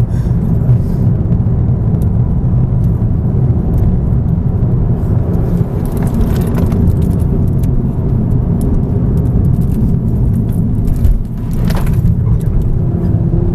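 Mk2 Ford Focus RS's turbocharged five-cylinder engine running under load with road noise, heard inside the cabin at speed, with occasional light clicks and rattles. There is a brief dip in loudness about eleven seconds in.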